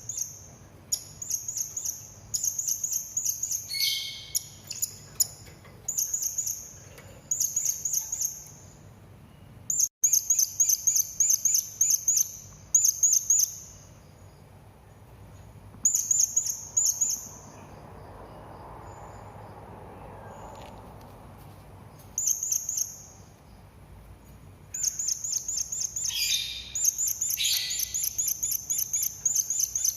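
Serindit (hanging parrot) calling: rapid trains of high, thin chirps, each train lasting a second or two, repeated many times with short pauses and a longer lull midway. A few lower, falling calls come in twice, early and near the end.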